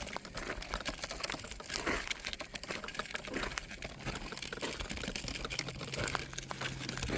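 Irregular crackling and rustling from walking along a driveway while carrying the recording phone. A low steady hum joins about five and a half seconds in.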